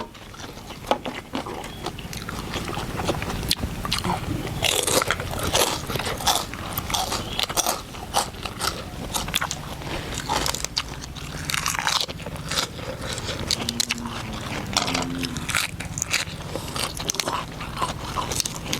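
Someone biting and chewing crispy pork rind (khaep mu), with many irregular crunches close to the microphone.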